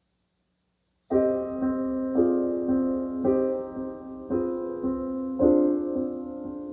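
Jazz piano entering after about a second of silence, striking a run of chords that each ring and fade, played back over hi-fi loudspeakers and picked up by a microphone in the listening room.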